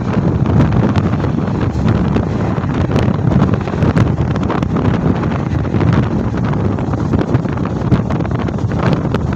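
Wind buffeting the microphone from the open doorway of a moving Mumbai suburban electric local train, over the steady rumble of its wheels on the rails, with scattered sharp clicks.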